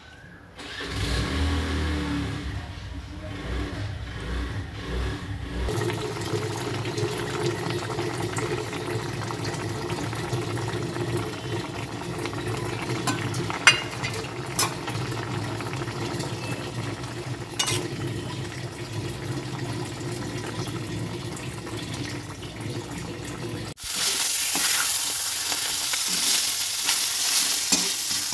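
A steady low hum with a few sharp clicks. Near the end it suddenly gives way to loud sizzling of food frying in a steel pan, with a metal spatula stirring and scraping.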